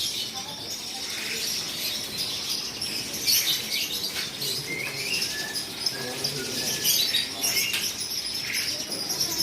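Many caged lovebirds chattering at once: a continuous shrill twittering with short, sharp chirps over it.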